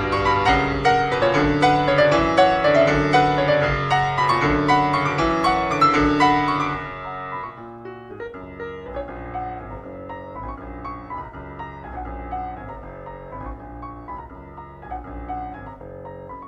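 Background piano music: a busy run of notes, then about seven seconds in it drops to a quieter, softer passage.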